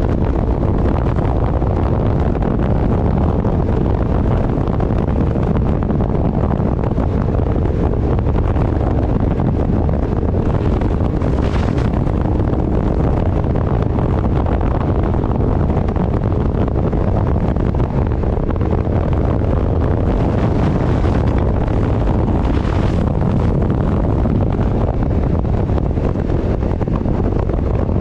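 Wind buffeting the microphone while travelling at speed: a loud, steady rumbling rush, left unfiltered, with the vehicle's running noise under it.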